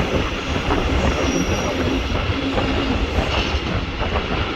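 Regional train running on the line, heard from on board: a steady rumble of wheels on rails, with a faint high wheel squeal about a second in.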